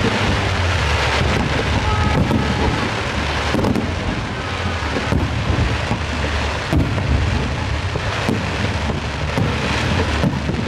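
Fireworks display going off: a continuous dense crackle and low rumble from many shells bursting together, with heavy booms about every one and a half seconds.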